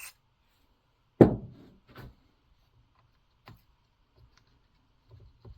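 Handling of small parts and tools at a workbench: one sharp knock about a second in that rings briefly, then a few light clicks.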